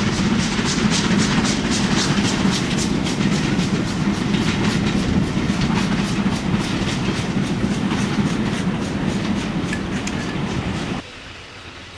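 Steam-hauled passenger coaches rolling past, their wheels clicking over the rail joints in a steady rhythm of about four clicks a second over a heavy rumble. The sound cuts off suddenly near the end, leaving a much quieter background.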